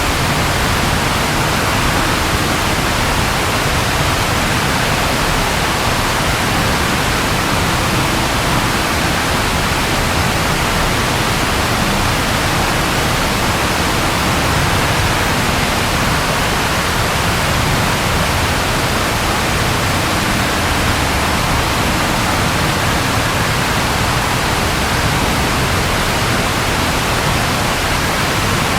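Steady rain, an even unbroken hiss with no thunderclap standing out.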